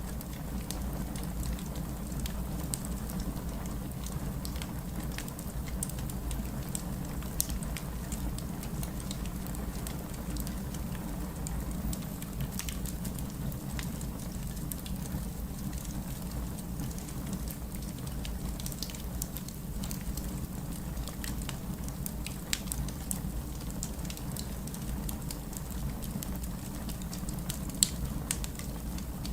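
Wood fire crackling with scattered sharp pops, one louder pop near the end, over a steady rush of heavy rain.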